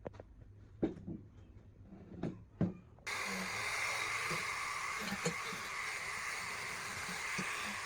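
A few light knocks and clicks of parts being handled, then a steady hiss that starts suddenly about three seconds in and carries on, with faint knocks in it.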